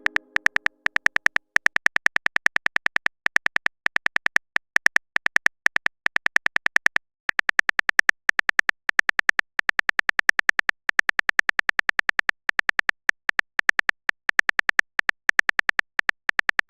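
Rapid, even typing clicks from a texting app's keyboard sound effect, about eight to ten a second, pausing briefly twice. At the start the tail of a short pitched alert tone fades out.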